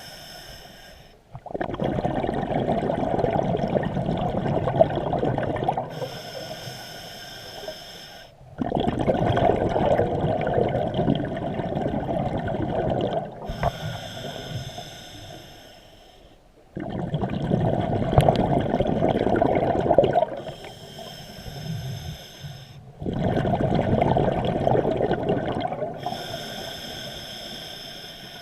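Scuba diver breathing through a regulator underwater: a thin hiss of each inhale, then a loud rush of exhaled bubbles lasting a few seconds, four breaths in a slow, regular rhythm.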